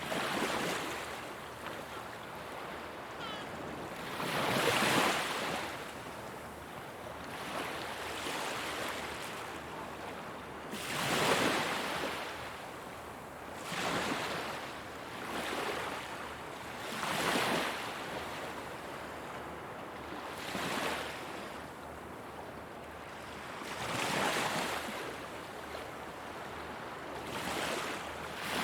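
Ocean waves breaking and washing on a shore, one surge of surf every few seconds over a steady wash, with some wind on the microphone.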